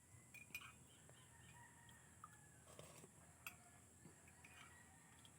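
Near silence: faint bird chirps in the background over a steady high hiss, with a few soft clicks.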